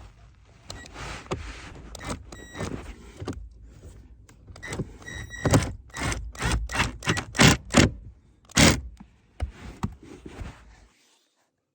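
Hard knocks, clicks and scrapes of car interior parts being handled, with a few short squeaks. The knocks come quicker and louder in the middle, about three a second, then stop shortly before the end.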